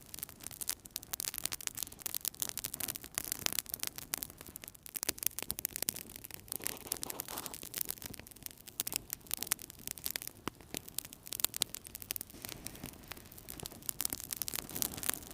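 Fire crackling in a fireplace: many small, irregular pops and snaps over a soft hiss.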